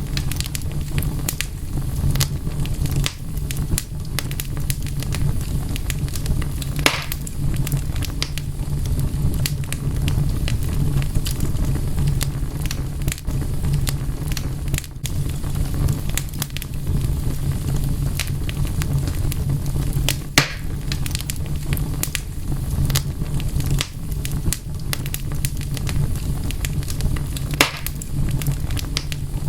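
Wood fire burning with a steady low rumble and frequent sharp crackles and pops, a few louder snaps among them.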